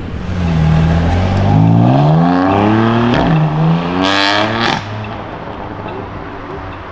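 A performance car accelerating away hard, its engine note climbing through the revs. About three seconds in the pitch drops at an upshift, then climbs again, with a brief loud crackling burst about a second later before the sound settles and fades.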